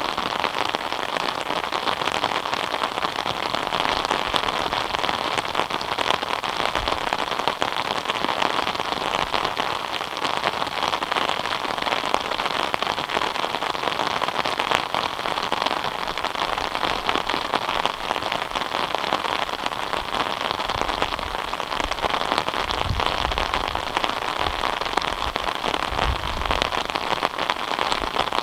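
Steady rain falling: a dense patter of drops over an even hiss. A few brief low rumbles come in the last several seconds.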